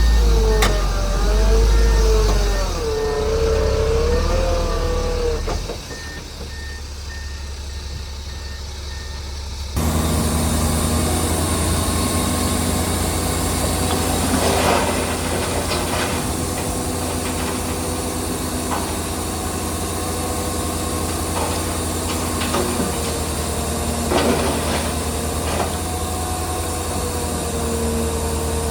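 Heavy diesel earthmoving machinery running. The engine's pitch rises and falls through the first few seconds, then after an abrupt change about ten seconds in it settles into a steady drone, with a few sharp clanks.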